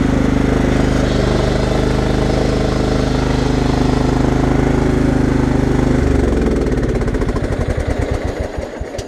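The 1997 Craftsman riding mower's 15 hp Kohler engine runs steadily, then is shut off about six seconds in. Its firing pulses slow and spread out as it coasts down, and it stops near the end.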